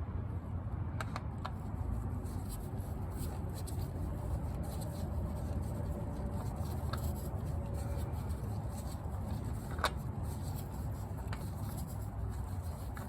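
Light clicks and rubbing of a spin-on oil filter being handled and threaded onto its mount by hand, over a steady low rumble.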